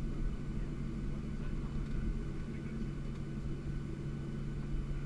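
Steady low rumble with a constant hum inside a Boeing 737-700 airliner's cabin, the aircraft parked at the gate.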